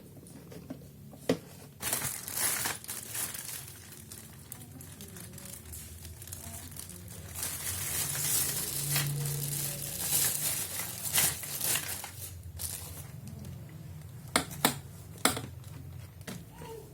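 Plastic packaging crinkling and rustling as it is handled and pulled off, in uneven stretches, with a few sharp clicks and knocks near the end.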